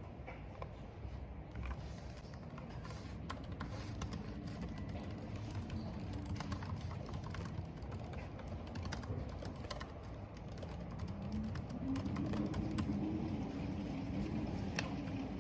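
Computer keyboard typing, irregular key clicks, over a steady low rumble of wind and rain that swells near the end.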